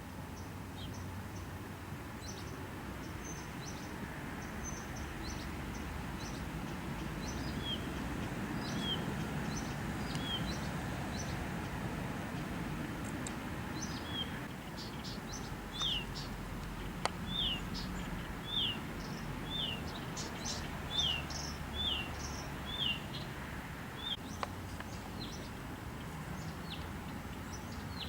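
Bird chirping: short chirps that fall in pitch, repeated in runs and coming about every second in the middle stretch, with scattered higher ticks over a low steady rumble.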